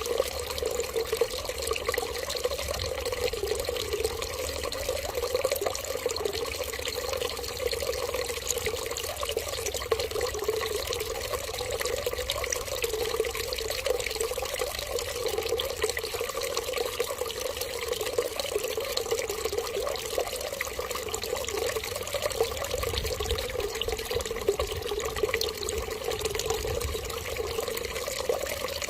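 Running water pouring in a steady, unbroken stream, like a tap left running or a trickle into a basin.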